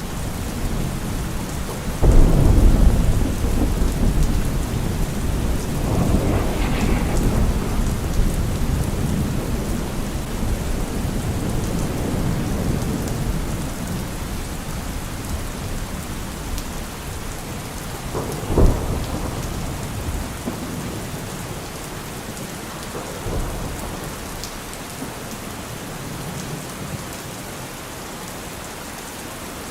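Heavy rain falling steadily on a car roof, with thunder. A loud clap and rumble come about two seconds in, another rumble follows a few seconds later, and a short sharp crack comes past the middle; the rumbling then thins out toward the end.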